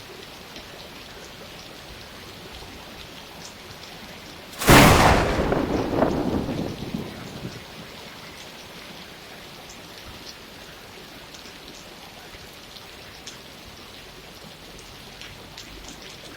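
Steady rain falling, with scattered individual drops. About a third of the way in, a sudden sharp thunderclap cracks and rumbles away over about three seconds.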